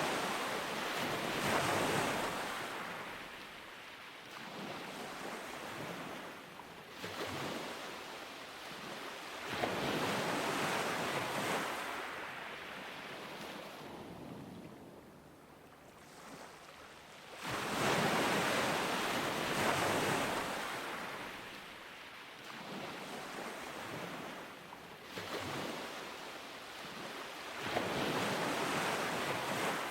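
Ocean surf breaking on a beach, the hiss of the waves swelling and fading in repeated surges every few seconds, with a quieter lull about halfway through.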